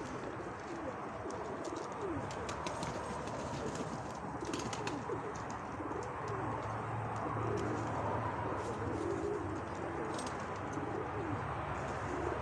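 Several pigeons cooing, their calls overlapping continuously, with a few light clicks.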